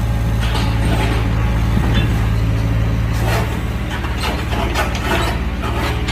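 Excavator's diesel engine running steadily while the machine handles oak logs, with scattered knocks and scrapes of wood, more of them in the second half.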